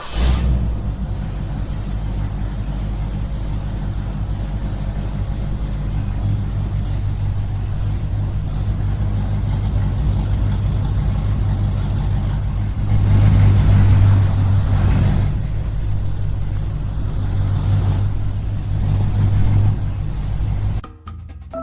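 A small engine running steadily with a low, even drone, louder for a couple of seconds midway, then cutting off suddenly shortly before the end.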